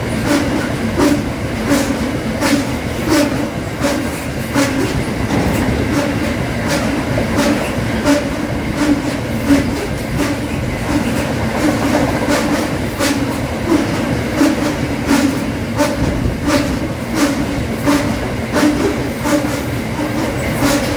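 Open-top mineral wagons of a freight train rolling past at speed: a steady rumble and hum from the wheels on the rails, with frequent sharp clicks as the wheels pass over rail joints.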